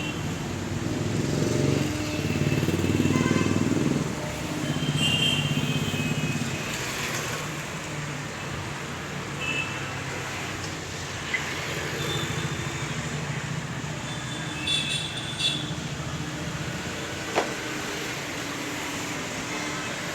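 Passing road traffic: an engine rumble swells twice in the first several seconds and then settles to a low background hum. Short high bird chirps come now and then, with a few sharp clicks.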